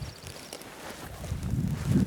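Footsteps through the woods, soft at first and growing heavier in the second half, with a faint run of bird chirps near the start.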